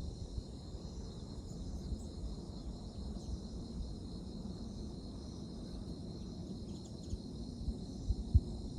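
Steady, high-pitched chirring of a chorus of night insects such as crickets, over a low outdoor rumble, with a sharp low thump near the end.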